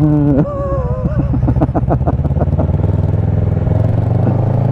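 Motorcycle engine heard from the rider's own bike: the revs fall away in the first second, then it runs steadily with the pitch slowly rising near the end.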